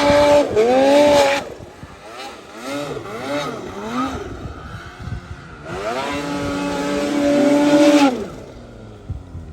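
Snowmobile engine revving hard: held high, then dropping and climbing in pitch several times as the throttle is worked, held high again, and falling off near the end.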